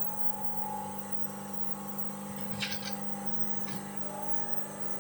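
Steady machine hum made of several even tones, with a short metallic clatter a little past halfway and another click soon after.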